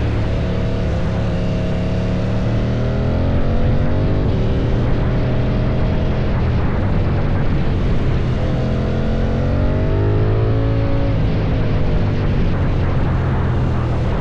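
KTM 790 Duke's parallel-twin engine through an Akrapovic exhaust, running under way with its pitch falling and rising as the throttle changes, including a long climb in pitch about eight to eleven seconds in, then a drop.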